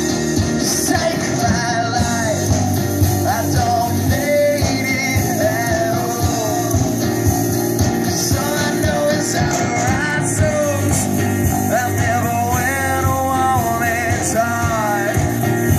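Live rock band playing a song, guitars and bass over a steady drum beat with a melody line that bends in pitch above them.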